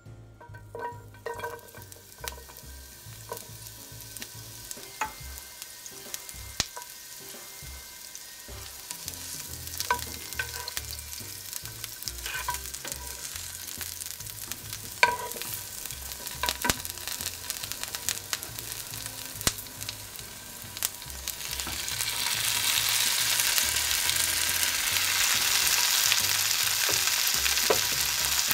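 Food sizzling in hot oil in a pan while being stirred, a utensil clinking against the pan now and then. The sizzle grows much louder a little over two-thirds of the way through.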